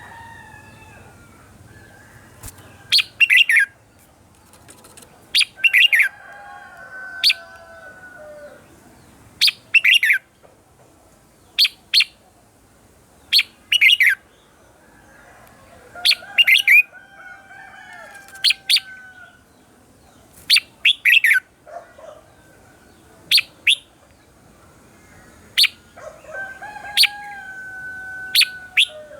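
Red-whiskered bulbul singing short, loud, bright phrases, one every second or two, with fainter drawn-out whistles behind them.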